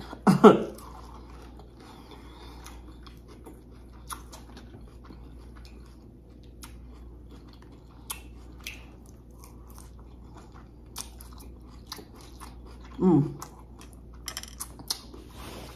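Close-up chewing and mouth sounds of a person eating a burrito bowl of rice, chicken and lettuce: many small, scattered wet clicks and crunches. A short hum comes about 13 seconds in.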